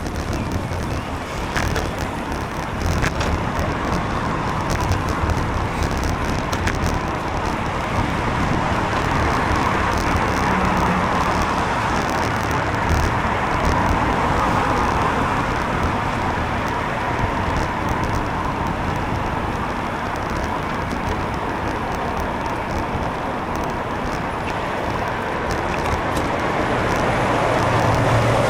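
Steady traffic and road noise heard from a bicycle in the rain: tyres hissing on wet tarmac and cars passing close by.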